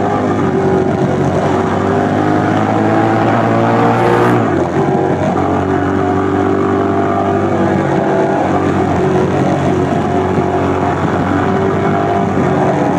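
A 2004 Suzuki SV1000S's V-twin engine through a LeoVince SBK exhaust, ridden under way: the revs climb for about four seconds, drop suddenly at a gear change, then run fairly steady with small rises and falls.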